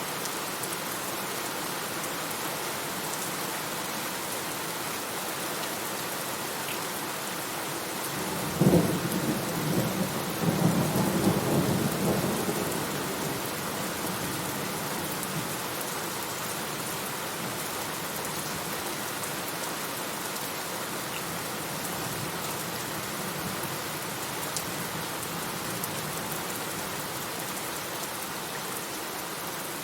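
Steady heavy rain hissing, with a thunderclap about eight and a half seconds in: a sharp crack followed by a rolling rumble that swells and dies away over about five seconds.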